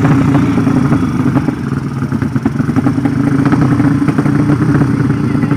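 Drag-racing motorcycle engine running at a steady, fast-pulsing idle, without clear revs.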